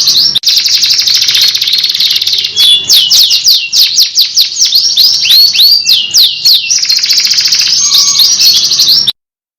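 Domestic canary singing a continuous song of fast rolling trills and repeated high whistled notes that sweep downward, several a second. It cuts off suddenly about nine seconds in.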